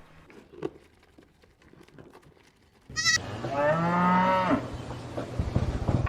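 A single drawn-out call from a farm animal, about a second long, a little past the middle, with a brief high wavering squeal just before it. A few low thumps follow near the end.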